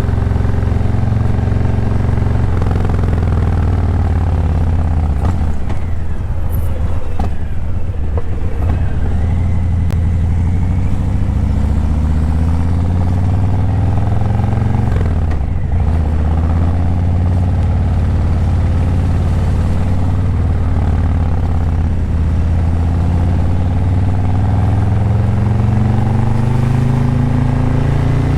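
Harley-Davidson Breakout 117's Milwaukee-Eight 117 V-twin running through Vance & Hines Eliminator 300 slip-on mufflers while riding in traffic. Its pitch falls as the bike slows twice and climbs as it pulls away again, the longest climb near the end.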